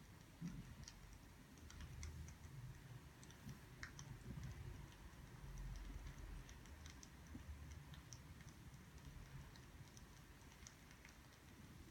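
Faint crackling of burning firewood: scattered, irregular small pops and ticks over a low rumble.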